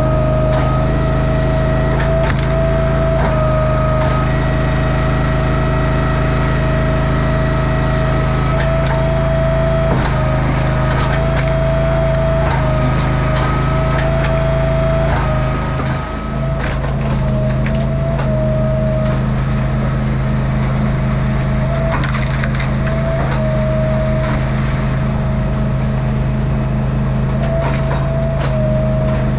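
Engine-driven log splitter running steadily, with wood cracking and splintering as rounds are split.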